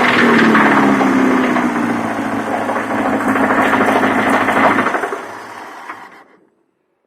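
UZAM-412 inline-four engine running with a connecting-rod knock in the fourth cylinder, its revs easing down slightly in the first two seconds. About five seconds in, the engine is switched off and runs down to silence.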